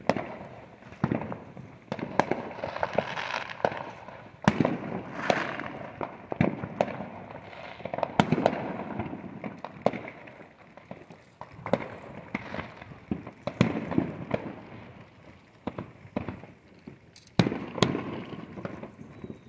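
Fireworks going off in a near-continuous string of sharp bangs and pops of varying loudness, with crackling between them. The biggest bangs come about four seconds in, about eight seconds in, and near the end.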